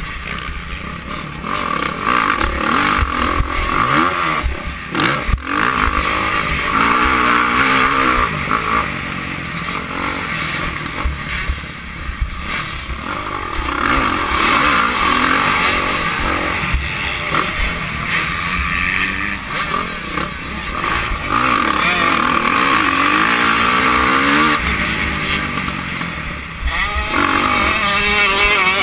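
Motocross dirt bike engines racing around the track, revving up and falling back again and again as the riders accelerate and shift.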